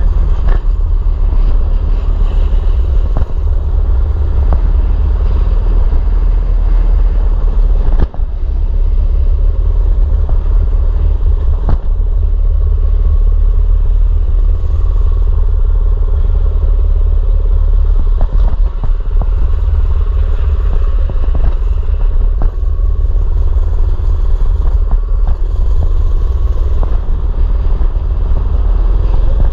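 Mini bike's small engine running steadily while being ridden, under a heavy low rumble, with a few sharp knocks along the way.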